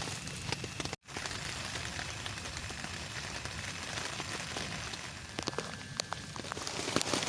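Steady rain falling, with scattered louder drops striking close by. The sound cuts out completely for an instant about a second in.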